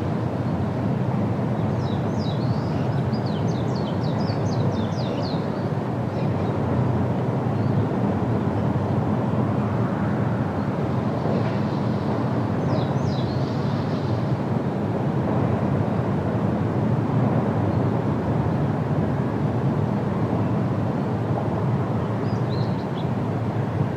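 Steady wind through the trees, a low rushing noise. A songbird sings a quick run of high chirps a couple of seconds in, again about halfway, and briefly near the end.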